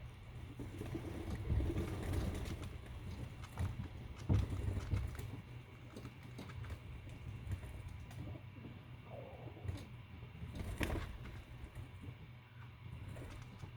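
Pigeons cooing softly, with scattered light taps and clicks over a low steady hum.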